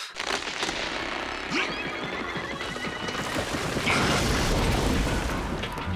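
Dense cartoon sound effects: a continuous rattling, clattering commotion of rapid small impacts with a low rumble underneath, heaviest around four to five seconds in.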